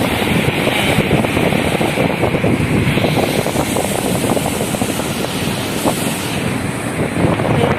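Strong tropical-storm wind buffeting the microphone, a steady rushing roar with constant low rumbling flutter.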